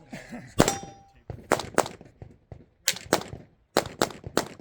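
Glock 47 9mm pistol firing about eight shots, mostly in quick pairs. A brief metallic ring follows the first shot.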